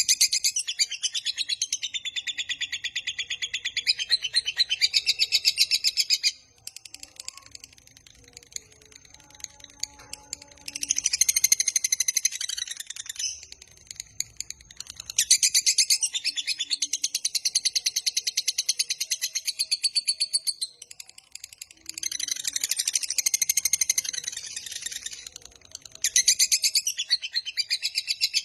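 Lovebird ngekek: a long, fast, high-pitched chattering trill of rapidly repeated notes, delivered in about five bouts of several seconds each with short pauses between them.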